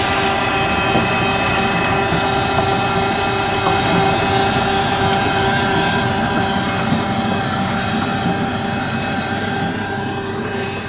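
Engine running steadily at a constant pitch with a whine, easing off slightly near the end.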